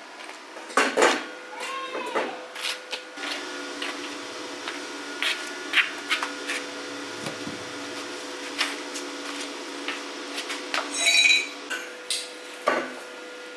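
Irregular clinks and knocks of metal parts and tools being handled, over a steady hum.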